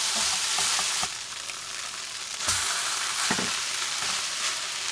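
Crumbled tofu and carrots sizzling in a hot pan, easing a little about a second in, while being stirred, with a couple of short knocks of the utensil against the pan.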